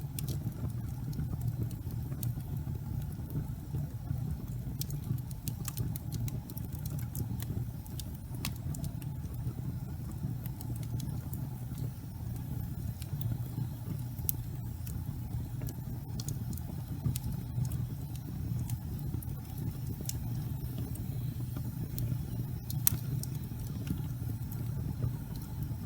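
Fire burning in a fireplace: a steady low rumble of flame with scattered light crackles, and one sharper pop near the end.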